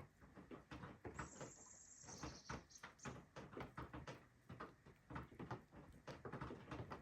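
Meltwater dripping from melting snow in quick, irregular ticks, with a bird giving one high, thin, drawn-out note a little after a second in.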